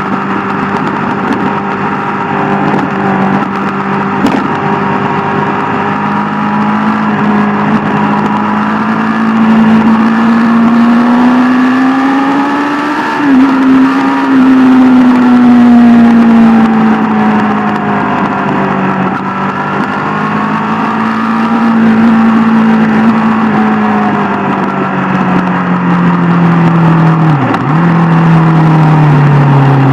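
Sport motorcycle engine running while riding. Its note holds steady, climbs slowly to a peak about halfway, then eases back down, with a brief sharp dip near the end.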